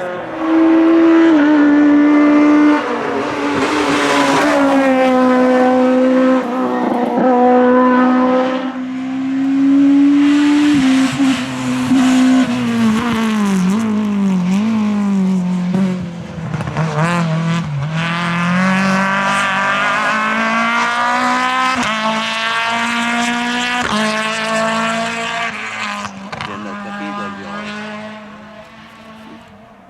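Naturally aspirated Groupe F2000 rally car engine at high revs under full attack. The pitch steps with gear changes, drops and sweeps up and down through a braking and re-acceleration stretch midway, then holds high again before fading away near the end.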